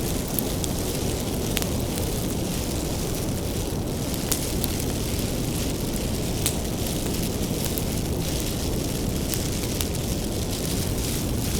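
Bonfire of firewood burning: a steady low rumble of flames with a handful of sharp crackles and pops scattered through it.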